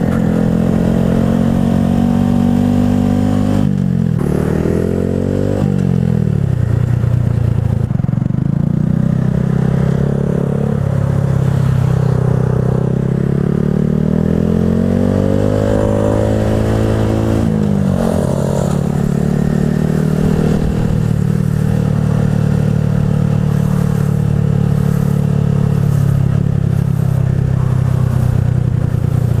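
Motorcycle engine running under riding load, its pitch climbing and dropping as the throttle is worked and gears change, with sharp dips about 4, 5½ and 18 seconds in.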